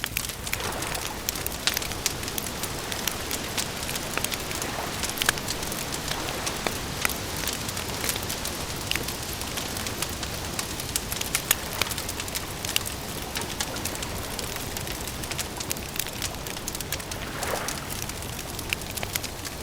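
Campfire crackling, with many sharp pops and snaps over a steady hiss.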